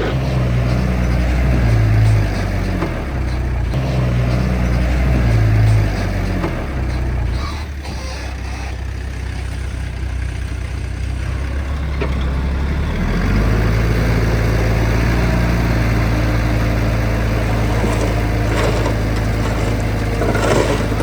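Heavy diesel engine of an earthmoving machine running, rising under load twice in the first few seconds, easing off in the middle, then running steadily harder again from about two-thirds of the way through.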